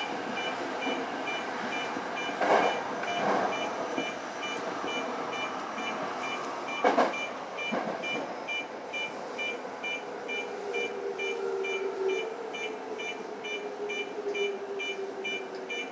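Toyo Rapid Railway 2000 series train running into a station, heard from the cab: a fast, evenly repeating electronic beep goes on throughout, wheels knock over rail joints or points a few times, and about ten seconds in a low motor whine sets in, falling slightly in pitch as the train slows.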